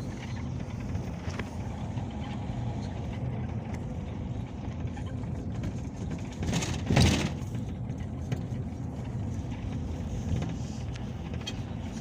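Peugeot Boxer minibus on the move, heard from inside the cabin: a steady low engine and road rumble, with one brief louder whoosh about seven seconds in.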